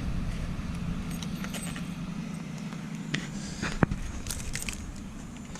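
Keys jingling, with scattered light clicks and knocks over a low, steady vehicle hum that fades away about halfway through.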